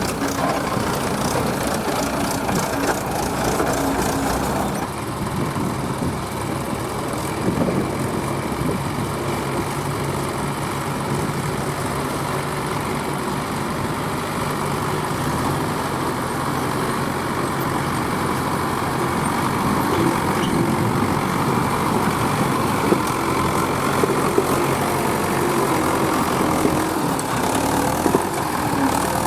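Large diesel engine of a tractor or backhoe loader running steadily, with a change in its sound about five seconds in.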